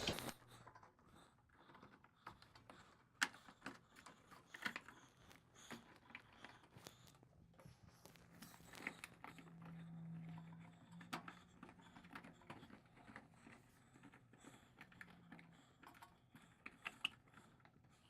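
Faint scattered clicks and taps of hands working a rubber door seal over a washing machine's plastic outer tub, with a faint low hum in the middle.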